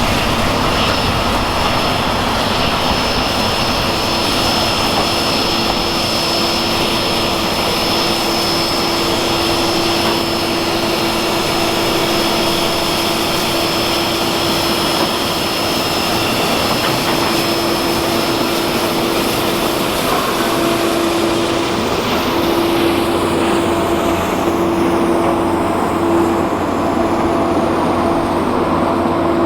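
Steady running noise of a steam-hauled passenger train rolling along the track, with a sustained hum that grows stronger a few seconds in and wavers for a while later on.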